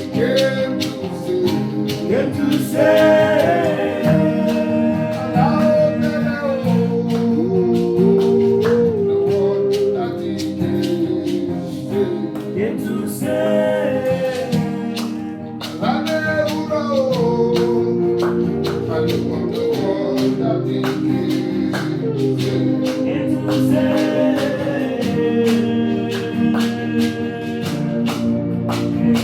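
Gospel song with a singer over a band and a steady percussive beat.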